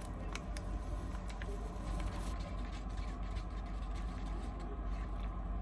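Steady low hum inside a standing passenger train waiting to depart, with a few faint clicks and knocks in the first two seconds.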